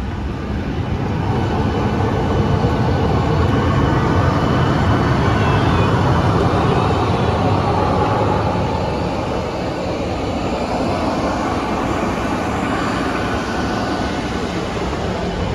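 Jet aircraft engine noise: a steady low rumble with a broad hiss, swelling for several seconds in the middle and easing off again.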